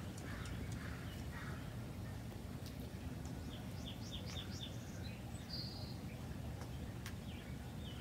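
Small songbirds chirping, with a quick run of about five short falling notes around four seconds in and a single higher note just after, over a steady low background rumble.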